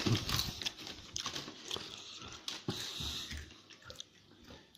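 Close-up crunching and chewing of Doritos tortilla chips: irregular crisp crackles, loudest in the first second.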